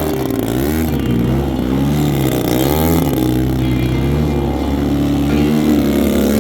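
Large RC aerobatic plane's GP-178 engine running on stock mufflers, its pitch rising and falling several times.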